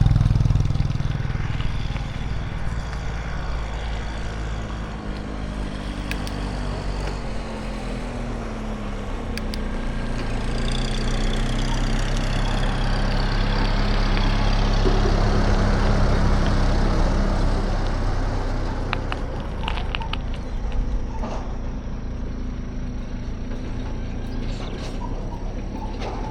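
City street traffic: motor vehicle engines running and passing, with a steady low engine hum that swells louder about halfway through and a few clicks and knocks near the end.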